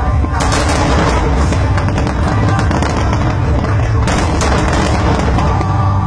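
Aerial fireworks going off in rapid succession: deep booms under dense crackling, with louder bursts about half a second in and about four seconds in.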